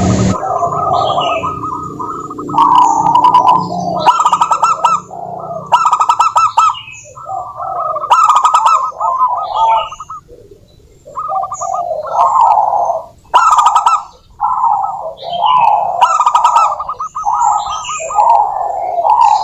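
Zebra doves (perkutut) calling: repeated phrases of rapid, staccato cooing, each one to two seconds long with short breaks between, and scattered short higher chirps.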